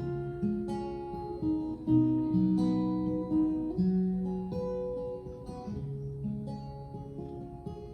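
Acoustic guitar playing the slow instrumental introduction of a song, its notes ringing on and changing about once a second.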